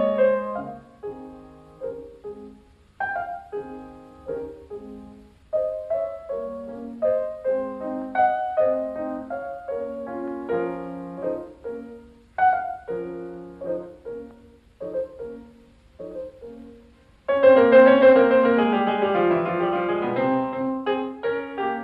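Solo piano music: single notes and chords struck and left to fade, getting louder and fuller about seventeen seconds in.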